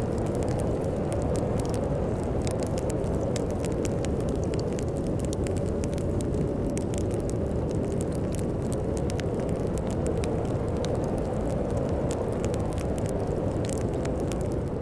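Wood fire crackling in a fireplace, many small irregular pops, over a steady low rumble of storm wind.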